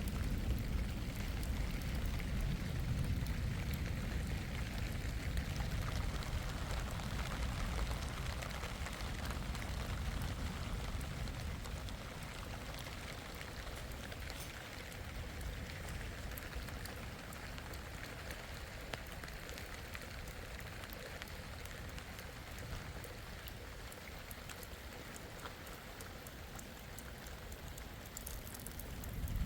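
Steady rain falling, with a dense patter of drops and a low rumble that eases about twelve seconds in.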